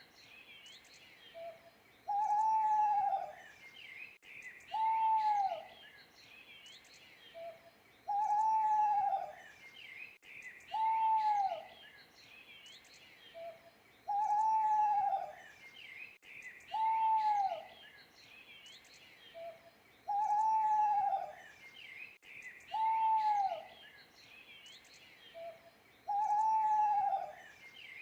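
An owl hooting over and over in a steady cycle: a long hoot, then a shorter one about two to three seconds later, each pair sometimes led by a faint short note. Small birds chirp faintly in the background.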